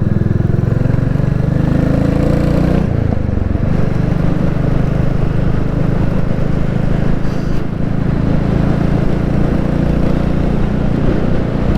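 Royal Enfield Classic 350's single-cylinder engine running under way. The revs climb, dip briefly about three seconds in, then hold steady.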